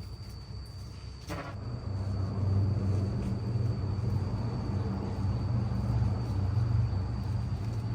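A low, steady engine rumble that swells about one and a half seconds in and then holds, with a faint steady high whine above it and a single click just before the swell.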